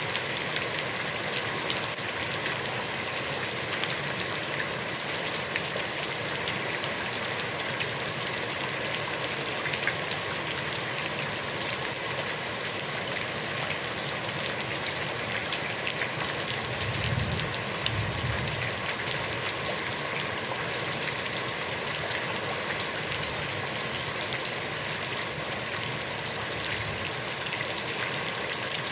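Heavy rain falling on a pond: a steady hiss dense with the ticks of individual drops hitting the water. A brief low rumble comes about two-thirds of the way through.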